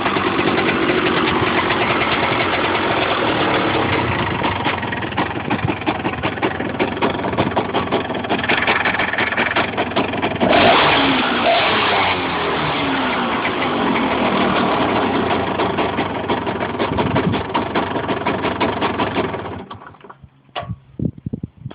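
Cagiva Mito 125's two-stroke single-cylinder engine running, with a blip of the throttle about halfway through as the revs rise and fall back. The engine then cuts off near the end, followed by a few brief knocks.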